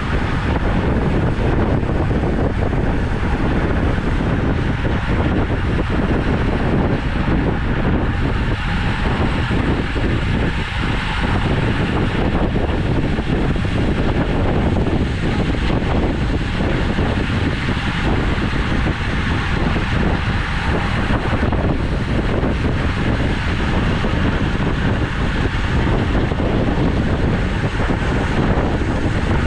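Steady wind noise rushing over the microphone of a camera riding along on a road bike, loudest at the low end, with no distinct events.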